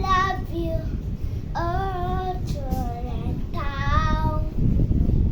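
A child singing three drawn-out, wavering notes without clear words, over a steady low rumbling noise.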